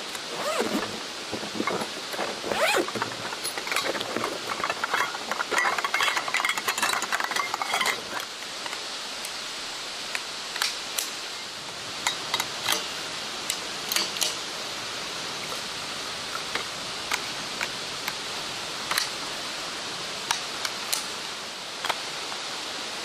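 Steady rush of a stream. Over it, close rustling and clinking handling sounds fill the first eight seconds, then give way to scattered light clicks and taps.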